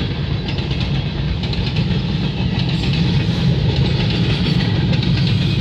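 Freight train cars, loaded gondolas at the head of the string, rolling steadily past: a continuous low rumble of wheels on rail with faint clicking.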